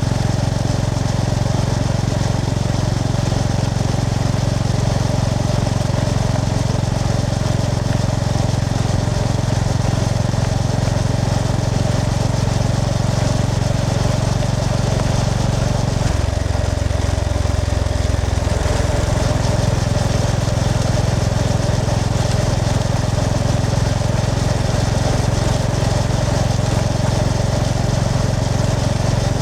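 Honda GB350S's single-cylinder engine running steadily while riding, with a brief change in its note about sixteen seconds in.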